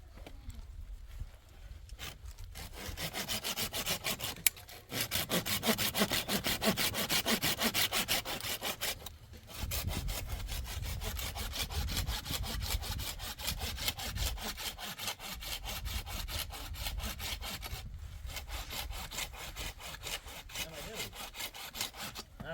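Rapid, even scraping strokes, several a second, with short pauses about 5 and 9 seconds in.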